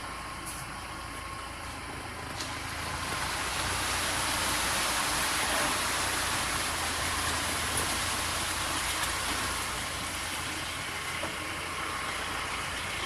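A vehicle passing, heard as a rushing noise that swells about three seconds in and fades away, over a steady low hum.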